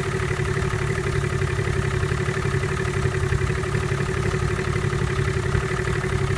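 Chrysler 70 hp two-stroke outboard motor idling steadily while warming up after a cold start, running on two-year-old stabilized gas.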